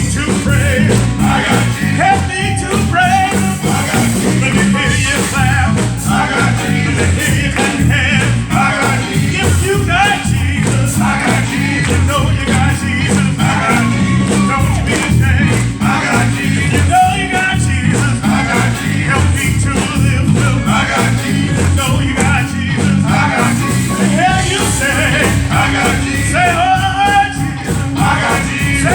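Live gospel praise music: a church band with drums plays a steady beat while voices sing over it.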